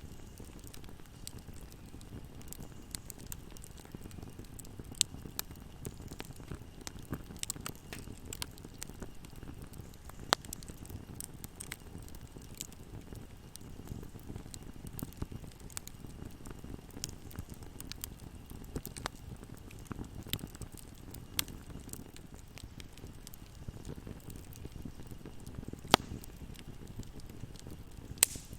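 Wood fire burning in a fireplace: a steady low rumble of flames with scattered crackles and sharp pops, the loudest pops about 10 seconds in and near the end.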